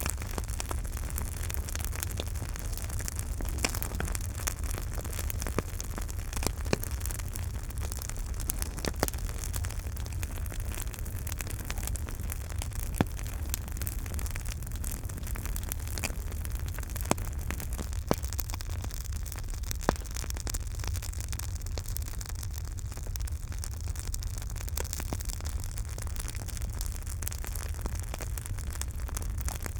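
Campfire burning: wood crackling and popping in irregular sharp clicks, a few louder pops among them, over a steady low rumble and hiss of the flames.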